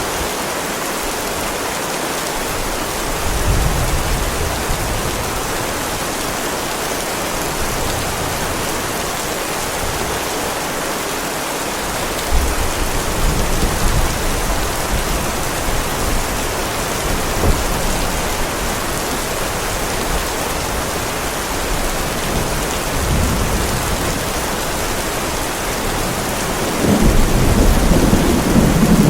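Heavy rain falling steadily on a paved driveway, an even hiss throughout. Low rumbles of thunder swell beneath it: a short one about three seconds in, others around the middle, and a louder, longer rumble near the end.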